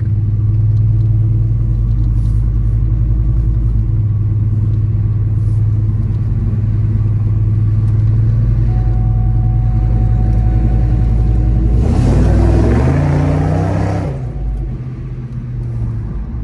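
2002 Mustang GT's 4.6-litre V8 heard from inside the cabin, cruising with a steady low drone, then about twelve seconds in a hard burst of throttle: the engine note climbs and gets much louder for about two seconds before falling back as he lets off.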